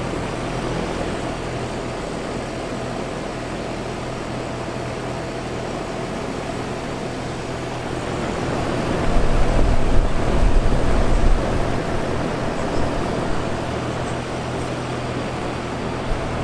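Carrier Infinity 24ANB7 two-stage outdoor air-conditioner unit, with its Copeland scroll compressor, running on its low stage: a steady rush of fan air with a low hum and a faint steady tone. About nine seconds in, a low rumble swells for a few seconds.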